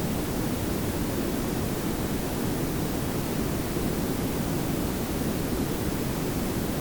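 Layered pink and brown noise: a steady, even hiss over a low rumble, with no change.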